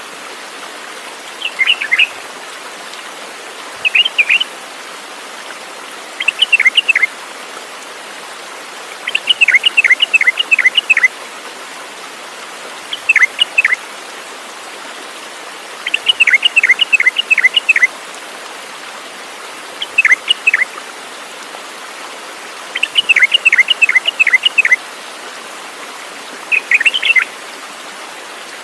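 A songbird singing short phrases of two to seven quick falling notes, repeated every two to three seconds, over a steady background hiss.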